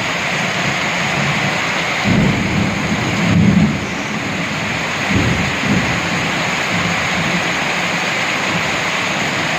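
Heavy rain falling steadily, with thunder rumbling in low rolls that swell about two seconds in, again around three and a half seconds, and once more about five seconds in.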